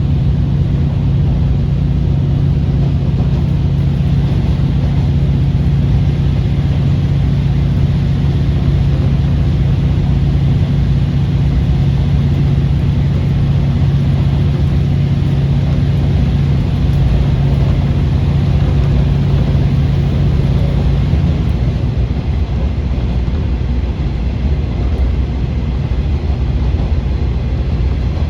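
KiHa 40 series diesel railcar running, its engine giving a steady low drone under power; about three-quarters of the way through the drone drops away, leaving the rumble of the running train.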